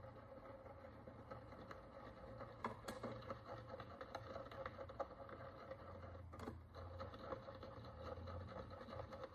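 Faint scraping and small clicks of a hand tool picking at the dirt and oxidation crust on a Roman bronze follis, with a sharper tick twice, over a steady low electrical hum.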